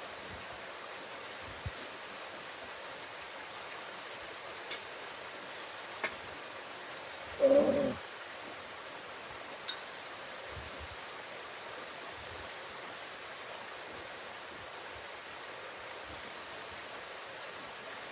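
Steady rush of a mountain stream, with a thin high tone held over it and a few faint clicks. About seven and a half seconds in comes one short, loud, low sound.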